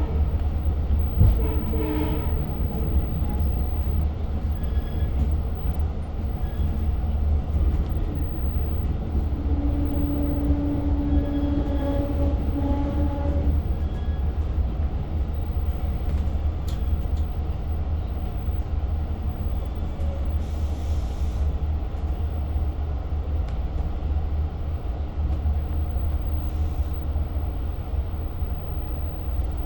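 Low, steady rumble of a diesel Long Island Rail Road train heard from inside the passenger car, with a muffled horn held for about four seconds around ten seconds in. Two short hisses follow later.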